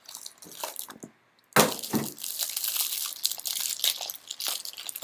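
Trading-card packaging being torn open and handled: a few light clicks, a sharp crack about one and a half seconds in, then steady crinkling and crackling of wrapper and cardboard.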